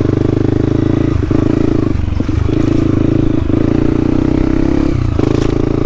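Dirt bike engine running steadily while being ridden, its note dropping briefly four times as the throttle is eased.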